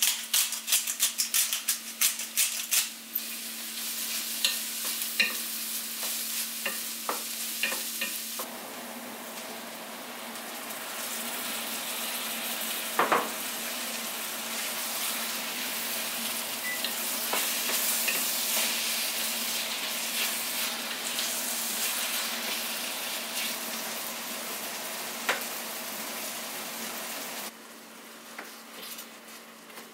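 Diced onion, bell pepper and tomatoes frying in a stainless steel pan, with a steady sizzle. A spatula scrapes and clicks against the pan in quick strokes for the first few seconds, there is one sharp knock about halfway, and the sizzle drops in level near the end. A steady low hum runs underneath.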